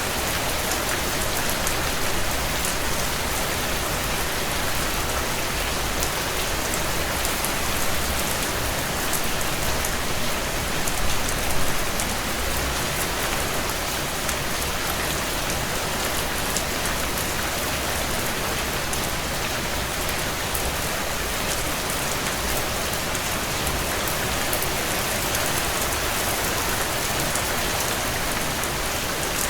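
Heavy rain falling steadily on a tin roof: a dense, even hiss of many drops, swelling briefly about eleven seconds in.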